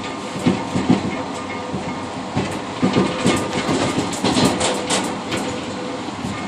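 Passenger train running on the rails, heard from inside the rear cab of the last car: a steady rumble with a string of irregular wheel clicks and knocks over rail joints, thickest from about two and a half to five and a half seconds in.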